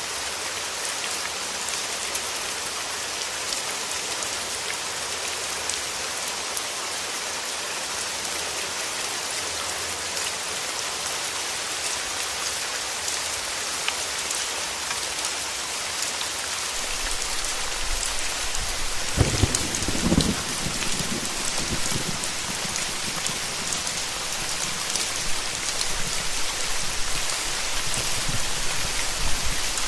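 Steady heavy rain falling and pattering on surfaces, a dense even hiss. About two-thirds of the way in, a low rumble swells up under the rain and then fades.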